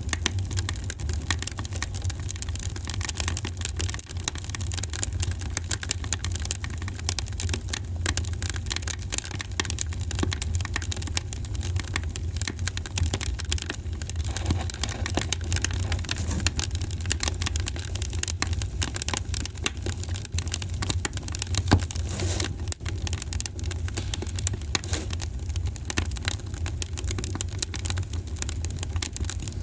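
Wood fire crackling in a fireplace: dense, irregular snaps and pops over a steady low rumble of the burning logs, with one louder pop a little over 20 seconds in.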